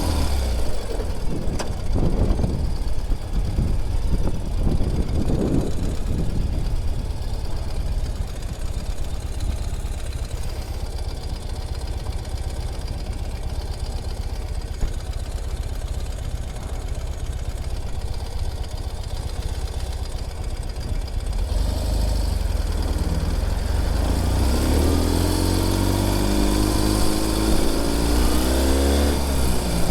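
Ural Gear Up sidecar motorcycle's air-cooled boxer twin engine running under way. Its pitch rises as it accelerates over the first few seconds and again near the end, with a steady low rumble in between.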